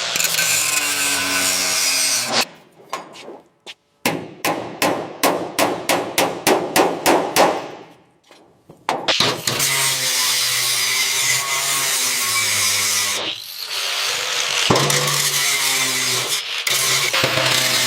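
Workshop restoration tool sounds: a power tool running steadily with a low hum, a stretch of quick rhythmic scraping strokes, about five a second, in the middle, then the power tool running again with a short break.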